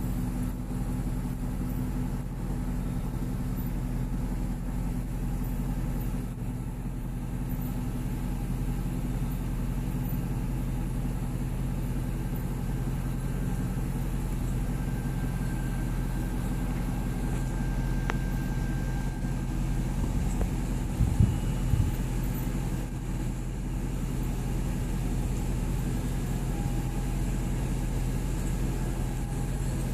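A car engine running steadily at low speed, a constant low hum. A couple of brief thumps come about two-thirds of the way through.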